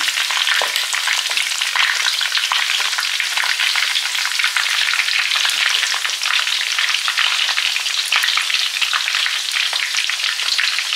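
Chicken pieces browning in hot oil in a wok, frying with a steady sizzle and dense crackle. A wooden spatula stirs and lifts them.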